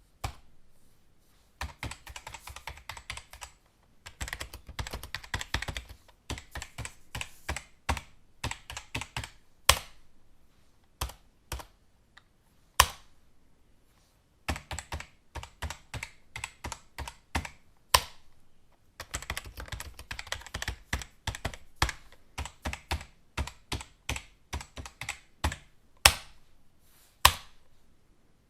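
Computer keyboard typing: runs of quick key clicks a few seconds long, broken by short pauses. A single louder keystroke stands out now and then.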